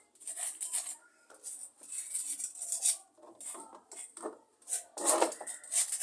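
Repotting work: an irregular run of scraping and rustling strokes with light knocks, from soil, pot and plant being handled by hand.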